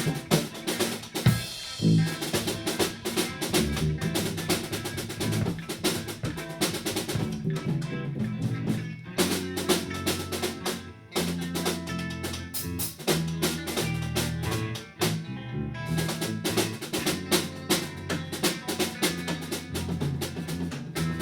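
Rock band playing a funky groove, with a drum kit prominent: steady snare, bass drum and cymbal hits under sustained low notes and other pitched instruments. The groove breaks off briefly a couple of times.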